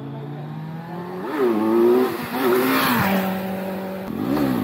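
Motorcycle engine revving up and down: the pitch climbs about a second in, drops around three seconds, and rises and falls in a quick throttle blip near the end.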